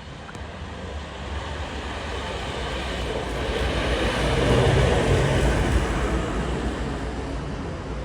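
A car's engine and road noise rumbling, swelling to a peak about halfway through and then easing off.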